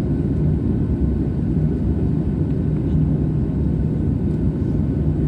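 Airliner engines running, a steady low rumble with a faint steady whine above it, heard from inside the cabin.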